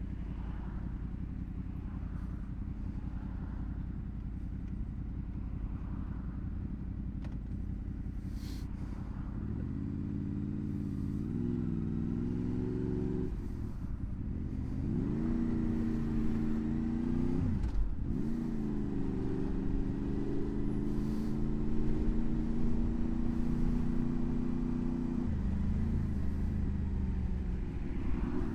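Honda VFR800's V4 engine running steadily at low revs, then pulling hard through the gears: the revs rise, drop at a shift about halfway through, climb again, dip at a second shift, and then hold steady before easing off a few seconds from the end.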